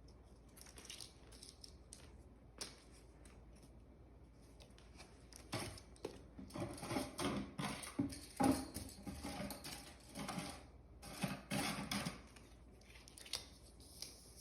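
Plastic GraviTrax marble-run pieces being handled and set in place: a scattering of light clicks and knocks, thickest from about five seconds in to near the end.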